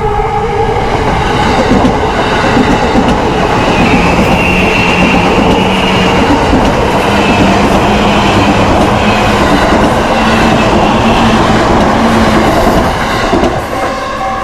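Yamanote Line electric train passing close by over a level crossing, its wheels clattering for about twelve seconds. A level crossing's electronic warning alarm rings as a steady two-tone signal at the start, is drowned out by the train and is heard again near the end as the train clears.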